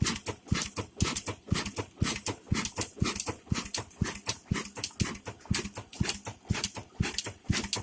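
Single-cylinder 'Kala' diesel oil engine running steadily, giving an even, rhythmic train of sharp knocking beats from its exhaust and valve gear.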